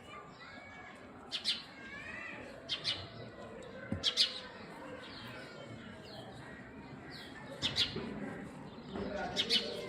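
Small sharp clicks, single or in pairs every second or two: lice nits being popped in the hair. Birds chirp faintly behind them.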